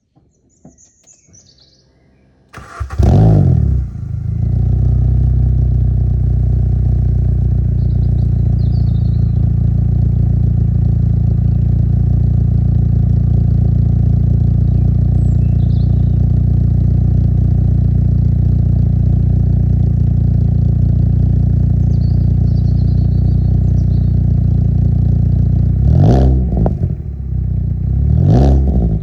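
Mini One R50 with an oval rear silencer and 3-inch exhaust tip starting up about three seconds in, flaring briefly, then idling steadily through the exhaust. Near the end the throttle is blipped twice. Birds chirp faintly before the start.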